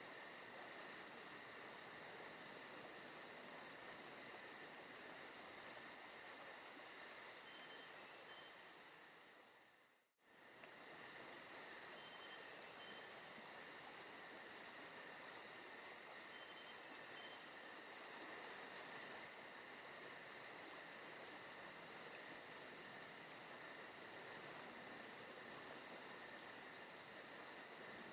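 Insects chirring steadily in a recorded forest ambience, a continuous fast high trill over steady high tones. About ten seconds in, the sound fades out for a moment and then returns.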